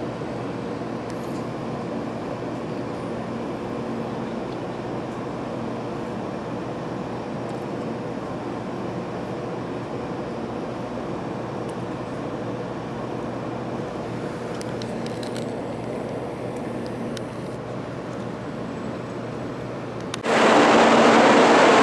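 Steady cabin hum inside an 800 series Shinkansen car, with faint low tones running through it. About twenty seconds in, a much louder rushing train noise sets in abruptly.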